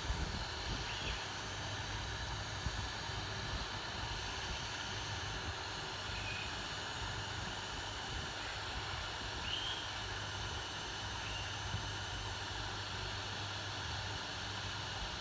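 Steady airflow hiss with a low hum, typical of a hot-air rework station or bench fan running. A few faint knocks come in the first seconds, and a few short high chirps follow later.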